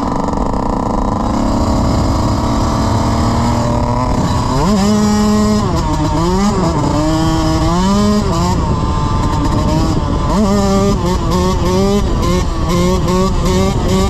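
Dirt bike engine revving while riding. The note holds fairly steady for about four seconds, then climbs and drops several times. From about ten seconds in it wavers quickly, two or three times a second.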